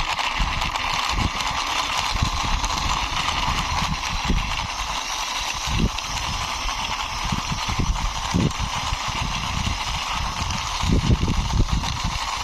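A toy Power Beko pushed along by hand: its wheels roll and knock unevenly on the surface, with irregular low thuds, over a steady hiss.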